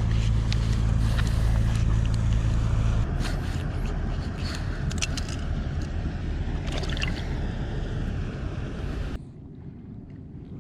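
A boat engine's low, steady drone stops about three seconds in, leaving wind noise on the microphone with scattered clicks and rattles. The level drops sharply near the end.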